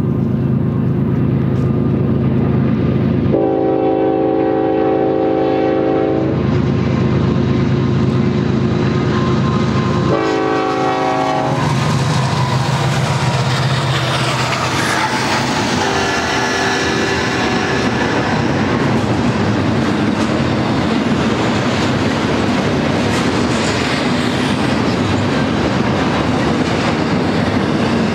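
Union Pacific diesel freight locomotives approaching with their engines running, sounding the air horn twice: a long blast about three seconds in and a shorter one about ten seconds in. The locomotives pass with a falling pitch, then the double-stack container cars roll by with a steady rumble and wheel clatter.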